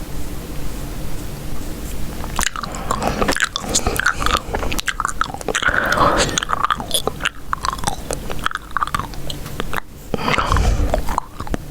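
Chewing gum close to the microphone: irregular wet, sticky clicks and smacks that start about two and a half seconds in, over a steady low background hum.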